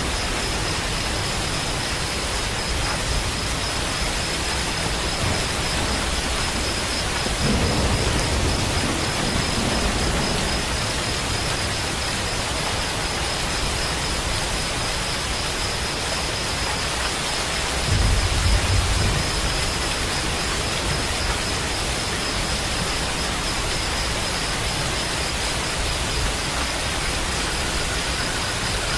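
Steady rain, with two low rumbles of thunder: one about seven and a half seconds in, and a shorter, louder one about eighteen seconds in.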